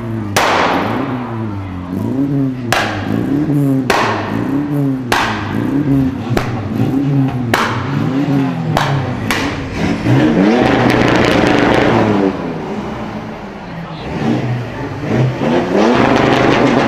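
A sports car engine revved in quick repeated blips, about one a second, its pitch rising and falling each time with a sharp crack at each blip. It is then held at high revs for a couple of seconds, and revved up again near the end.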